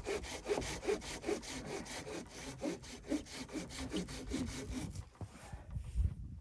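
Hand saw cutting through wood in quick, even back-and-forth strokes, which stop about five seconds in. A low thump follows near the end.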